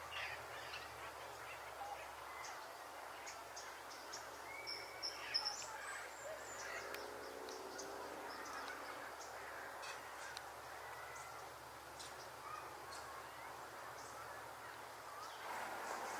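Scattered bird calls over outdoor background noise: short, sharp high notes, loudest about five seconds in, and a lower call of several tones around seven seconds in.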